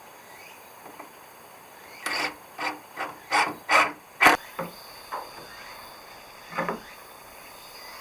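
A hand tool rasping on wood: a quick run of about six short strokes, then a few single strokes spaced out.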